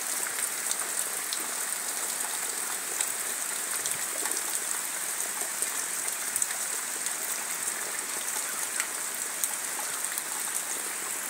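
Heavy tropical downpour falling steadily: a dense, even hiss of rain with the patter of many individual drops.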